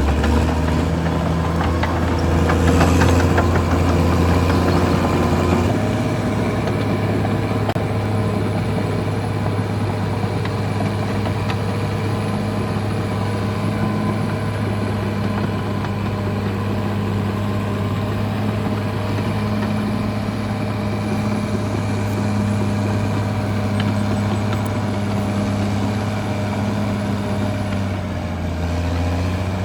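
Caterpillar D6R XL bulldozer's diesel engine running, with a clatter in the first few seconds. The engine note steps up about six seconds in and drops back near the end.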